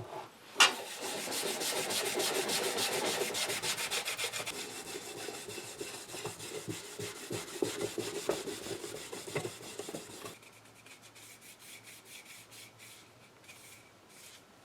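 Rapid back-and-forth scrubbing of a lacquer-coated wooden radio cabinet with hand cleaner. It starts with a knock about half a second in and stops abruptly about ten seconds in, leaving only faint light rubbing.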